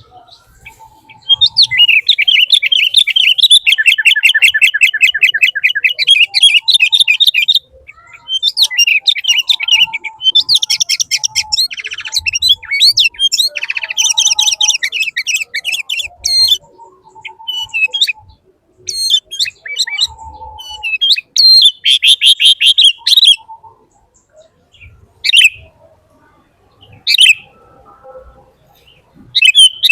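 A bird singing: long runs of fast trilled notes, the first lasting about six seconds, then shorter phrases and a few separate chirps toward the end.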